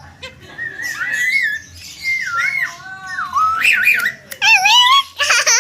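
Javan myna singing a run of wavering, gliding whistles, ending in a quick burst of rapid chattering notes.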